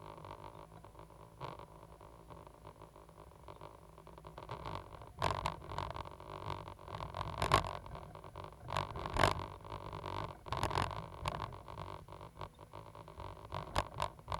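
Caterpillar 320 GC excavator at work: its four-cylinder diesel engine runs steadily, and from about five seconds in there is a run of loud scrapes and knocks from the digging.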